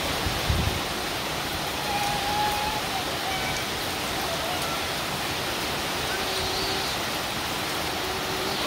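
Heavy rain falling steadily on wet concrete and garden foliage, an even, constant hiss.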